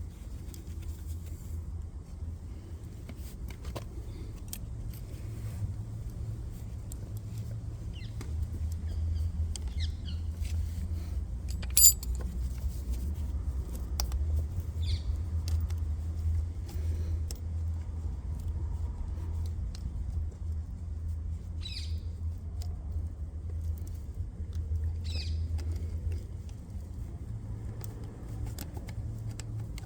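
Scattered metallic clicks and clinks of a spanner and battery cable hardware being handled, with one sharp click about twelve seconds in, over a steady low rumble.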